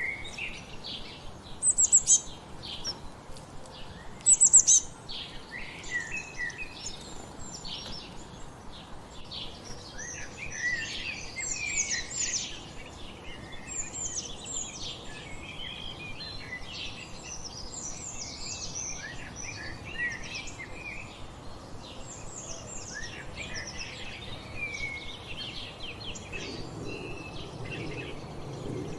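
A chorus of wild songbirds singing and chirping, many short calls and trills overlapping. Two loud, high calls stand out about two seconds in and again a couple of seconds later.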